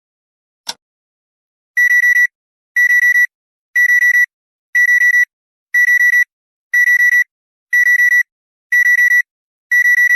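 Digital countdown timer: one last tick, then the alarm goes off as it reaches zero, a burst of four quick high electronic beeps repeating once a second.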